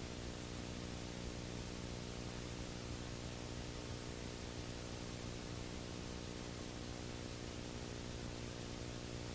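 Steady hiss with an electrical hum under it and nothing else: the recording's own background noise.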